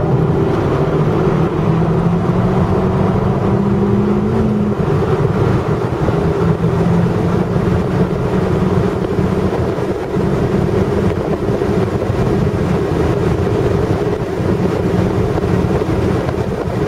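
Abarth Punto's 1.4-litre turbocharged four-cylinder engine heard from inside the cabin under way on track: its note climbs slowly in pitch, drops with an upshift about four and a half seconds in, then runs on steadily, over heavy wind and road noise.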